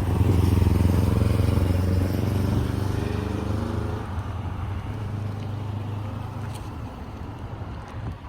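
A motor vehicle's engine running with a low hum and a slightly shifting pitch. It is loudest in the first few seconds, then fades away.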